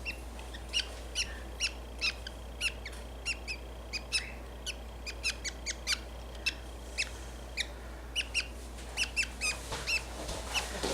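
Budgie chick giving a steady string of short, sharp chirps, about two or three a second.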